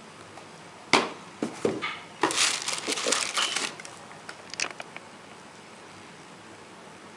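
Paper packaging crinkling and rustling as a sneaker box is unpacked: a sharp rustle about a second in, a dense run of crinkling from about two to nearly four seconds in, then a few scattered crackles.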